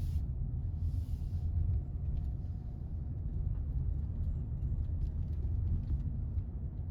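Low steady rumble.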